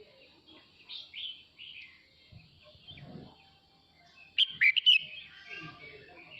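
Male red-whiskered bulbul singing: a few soft chirps, then about four and a half seconds in a loud, quick phrase of sharp, bright notes, the song a male uses to call its flock.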